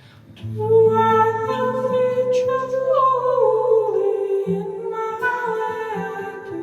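Live band music: a voice sings long held notes over the band, sliding down in pitch partway through.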